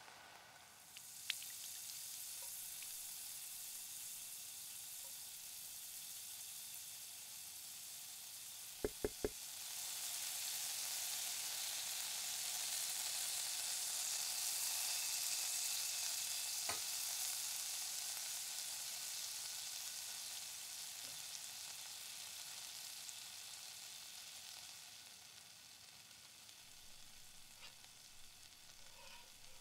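Diced potatoes frying in olive oil in a frying pan, a steady sizzle that starts as the lid comes off, swells louder from about ten seconds in and dies down near the end. Three quick sharp clicks about nine seconds in.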